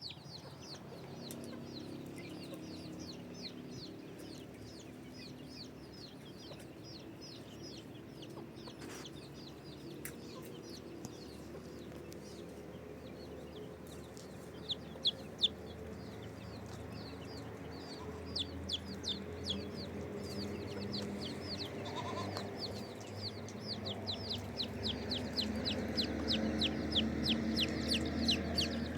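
Chickens clucking, with a busy flock of high, quick, falling chirps over them, growing louder toward the end.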